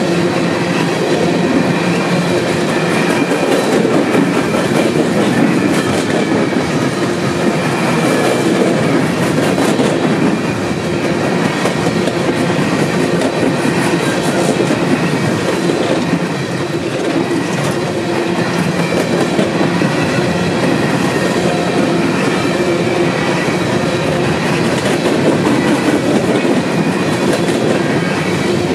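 Union Pacific freight train's coal cars rolling past close by: a loud, steady rumble of steel wheels on rail, with scattered wheel clicks and a faint steady high ringing tone over it.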